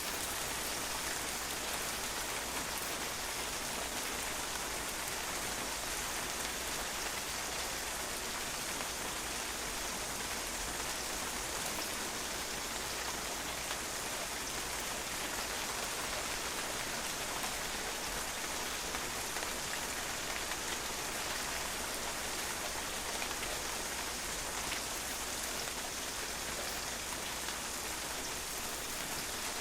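Steady rain falling and drops pattering on a patio, an even hiss with scattered small drop ticks.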